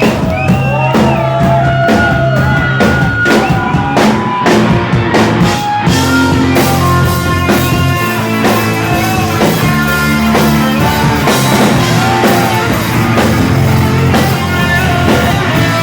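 Rock band playing live: electric guitar with notes bent up and down over bass and a drum kit, with little or no singing.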